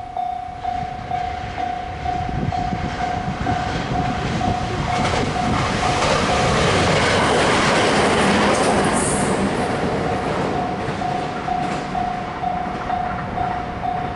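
521 series electric train passing close by over points, its wheels clattering on the rail joints. The sound builds to its loudest about six to nine seconds in, then fades. A warning bell dings about twice a second throughout.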